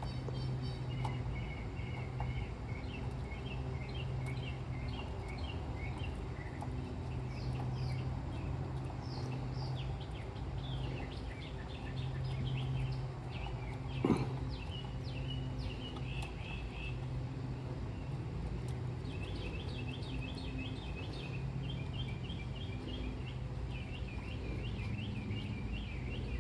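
Small birds chirping in runs of short high calls over a steady low hum. A single sharp knock comes about halfway through.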